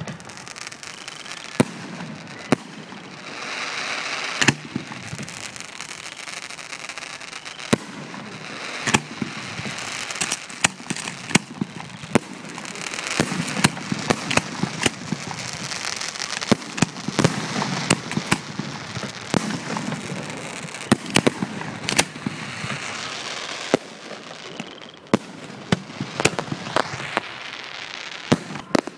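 Fireworks display: mortar-launched aerial shells going off one after another in many sharp, loud bangs, over a dense hiss that swells and fades between them.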